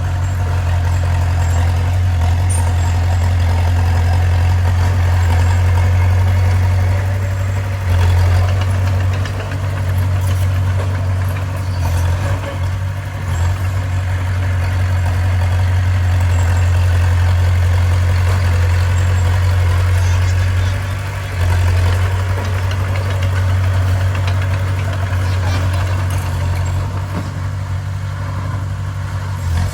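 Bulldozer's heavy diesel engine running steadily with a deep drone, its level dipping briefly a few times.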